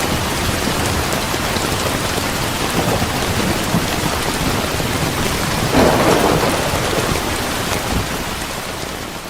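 Steady heavy rain, with a rumble of thunder swelling about six seconds in. The rain eases slightly in loudness near the end.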